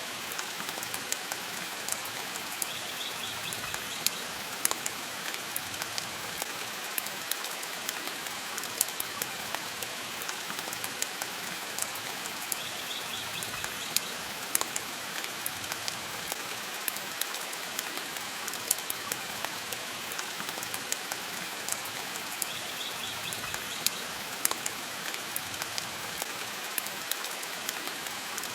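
Steady rain hiss mixed with a wood fire crackling in a fireplace, with frequent sharp pops and snaps scattered irregularly through it.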